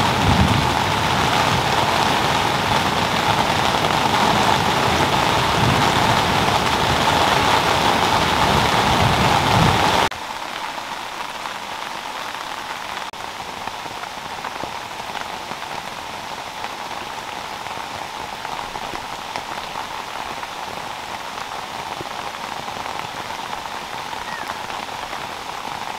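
Rain falling steadily, an even hiss. About ten seconds in it drops suddenly to softer, quieter rain.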